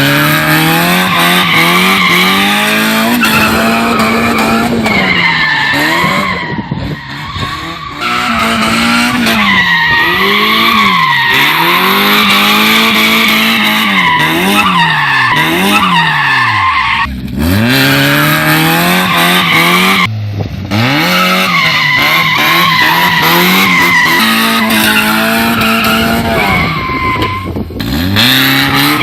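Dubbed-in race car sound effects: an engine revving up and down over and over, with long tire squeals. The engine pitch drops sharply three times, about halfway through, a few seconds later, and near the end.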